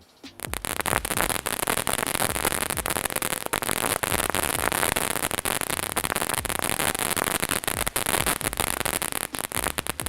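Freedom Star consumer firework fountain firing loud, dense crackle that starts suddenly just after the start: a rapid mass of sharp pops over a steady hiss.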